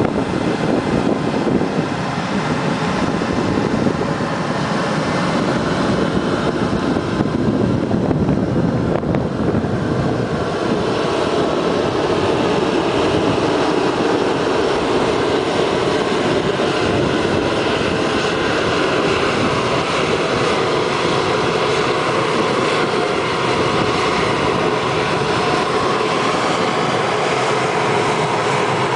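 Turbofan engines of a Challenger business jet running, a steady loud jet rush.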